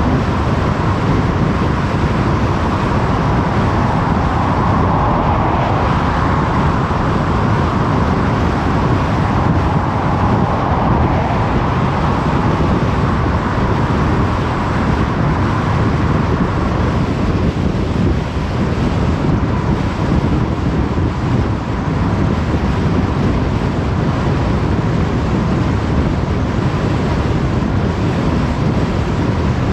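Steady road noise of a car driving on a motorway: continuous tyre and wind noise, slightly louder in the first half and easing a little after about seventeen seconds.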